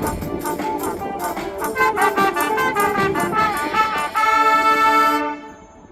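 School brass band playing a lively passage led by trumpets and trombones. Near the end it closes on a long held chord that breaks off about five seconds in.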